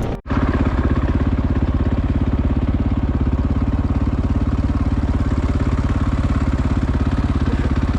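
Dirt bike engine running at a steady, even beat after a momentary drop-out at the very start.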